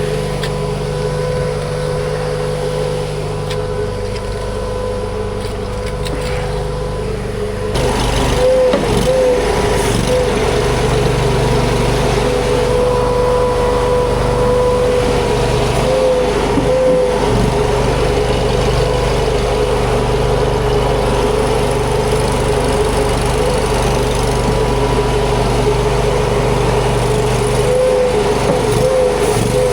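Huayee LHY480 mini skid steer running steadily, its engine drone carrying a constant whine. The machine gets louder about eight seconds in as it throttles up.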